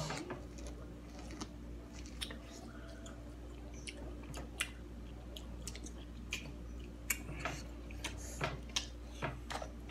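Chewing and biting corn on the cob coated in crushed Takis: scattered crisp crunches and wet mouth clicks at an uneven pace. A steady low hum sits underneath.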